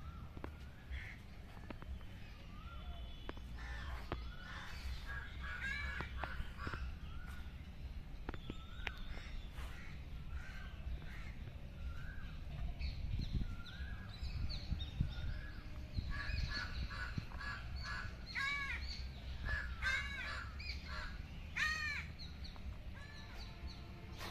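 Birds calling: a short note repeated about once a second, then several louder calls in the last third, three of them standing out. A low steady rumble runs underneath.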